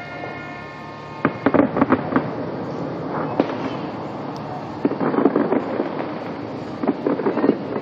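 Fireworks bursting in clusters of sharp cracks and crackling pops a couple of seconds apart. A steady high-pitched tone with overtones fades out during the first second.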